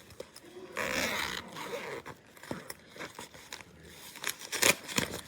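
Zipper on a makeup train case being pulled open, a rasping stretch about a second in, followed by clicks and knocks of the case being handled, the loudest near the end.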